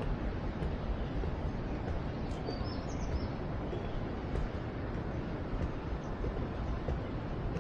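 Steady outdoor ambient noise, strongest in the low range, with a few short high bird chirps about three seconds in.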